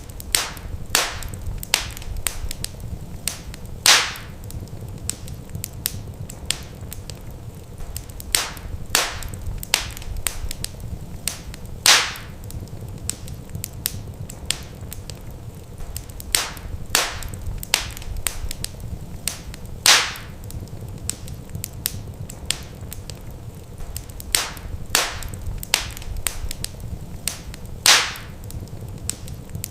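Wood fire crackling in a fireplace, with frequent sharp pops over a low steady rumble; the loudest pops come about every eight seconds, as in a looped recording.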